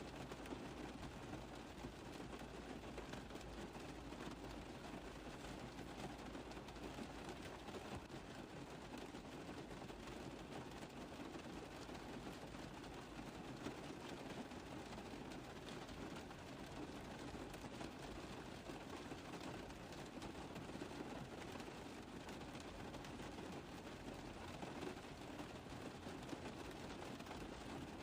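Rain falling on a car roof: a steady, dense patter of small drops.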